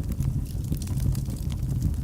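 Wood fire burning in a fireplace: a steady low rumble of the flames with scattered faint crackles and pops.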